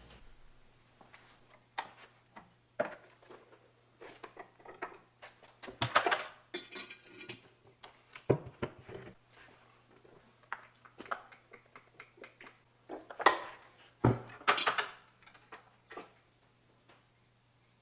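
Metal tools and engine parts clinking and clanking in irregular separate knocks, with a faint steady low hum underneath. This is hand work on the old Stover diesel engine during its repair.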